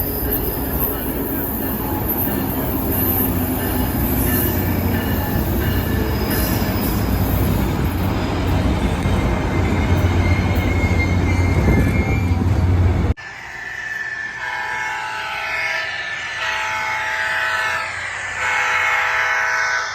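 A train passing close by, with a steady deep rumble, rail clatter and faint wheel squeal. About 13 seconds in it cuts off abruptly, and a run of sustained chord-like tones follows, some of them gliding.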